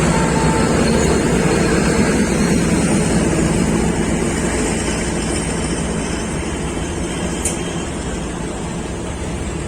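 Diesel train running, a steady engine and rolling noise that slowly fades, with a single sharp click about seven and a half seconds in.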